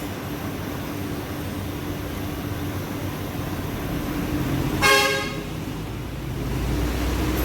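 Road traffic noise with a brief vehicle horn toot about five seconds in, the loudest sound; a low rumble of a passing vehicle builds near the end.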